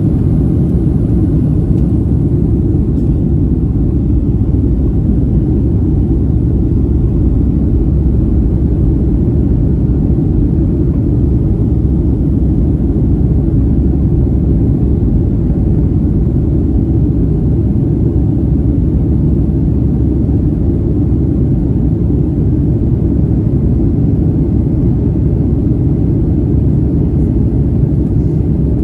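Boeing 757-200's jet engines at takeoff power: a steady, loud, low rumble with no rise or fall.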